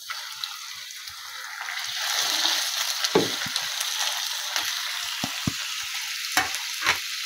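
Small pieces of raw chicken dropping into hot oil and fried ginger-garlic paste in a non-stick frying pan, sizzling. The sizzle swells about two seconds in as the meat hits the oil, with a few light knocks through the second half.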